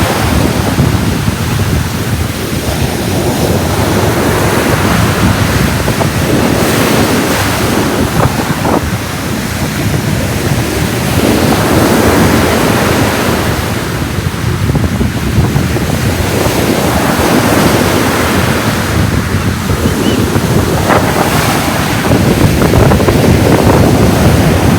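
Ocean waves breaking and washing onto a beach, rising and falling in slow surges every several seconds, with wind buffeting the microphone.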